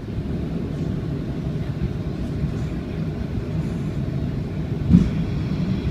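Airbus A330-200 cabin noise on approach: a steady low rumble of engines and airflow, with a brief thump about five seconds in.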